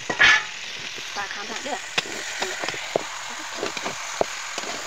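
Chicken pieces with onion and masala sizzling as they fry in a metal kadai, with a few sharp knocks of the spatula against the pan as it is stirred.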